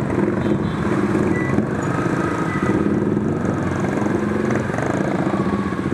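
Kawasaki Ninja 400's parallel-twin engine running at low, steady revs while creeping along in slow traffic, with the noise of the surrounding traffic behind it.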